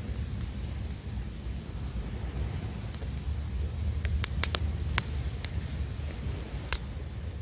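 Firewood in a campfire crackling: a few sharp pops in quick succession about four to five seconds in and another near the end. Under them runs a steady low rumble of surf.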